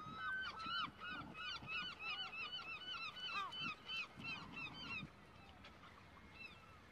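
Birds calling: a fast run of short, arched calls, several a second, that stops about five seconds in, leaving a few faint calls.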